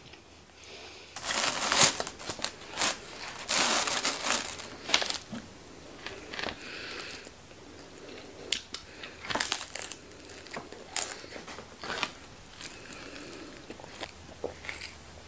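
Irregular crinkling and crunching close by as a delivered takeaway pizza meal is handled, in quick clusters during the first five seconds, then sparser clicks and rustles.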